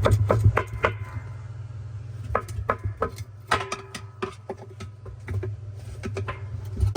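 Irregular metallic clinks and taps of hand tools against washer parts, some ringing briefly, over a steady low hum.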